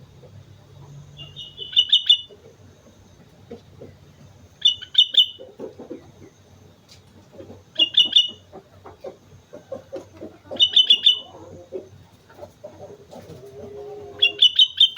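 Sooty-headed bulbul (kutilang) singing in full song: five short, bright bursts of rapid notes, about one every three seconds.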